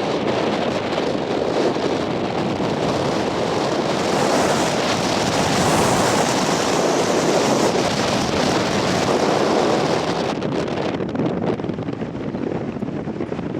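Strong wind blowing hard across the microphone, a loud continuous rush that eases slightly after about ten seconds.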